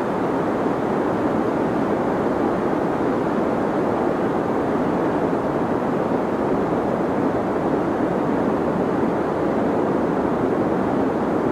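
Steady, unbroken deep noise for sleep, its energy weighted low, around a few hundred hertz, and thinning out in the highs, at an even level throughout.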